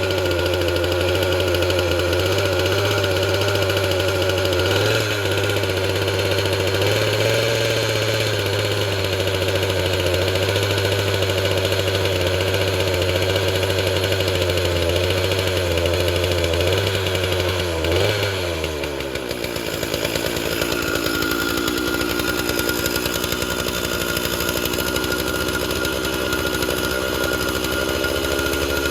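Stihl 046 two-stroke chainsaw engine, freshly rebuilt after a chipped piston, running at a fast, slightly wavering speed, then dropping to a steady idle about nineteen seconds in.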